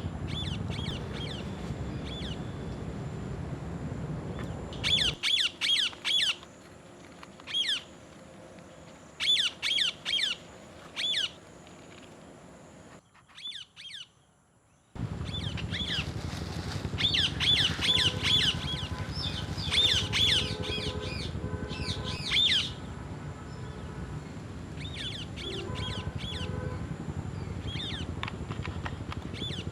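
Parrots calling: short squawks in quick runs of three to five, repeated throughout, over a steady low rumble. The sound cuts out for about two seconds midway.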